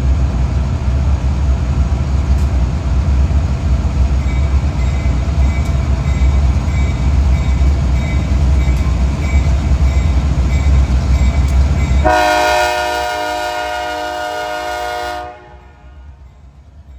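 A train rumbles past loudly for about twelve seconds. The rumble then gives way abruptly to a locomotive horn blowing one chord for about three seconds, which cuts off suddenly.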